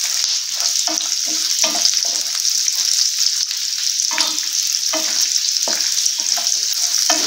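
Garlic cloves, shallots and dried red chillies sizzling in hot sesame oil in a non-stick pan, with a steady hiss. A wooden spatula stirs and scrapes through them in quick strokes, about two or three a second, as they are lightly sautéed.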